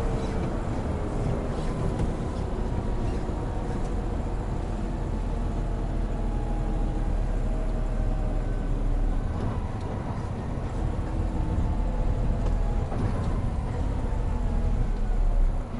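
Hino Profia (Hino 700) heavy truck's diesel engine running under way, its pitch slowly falling over the first several seconds, then rising again. The sound drops off abruptly near the end.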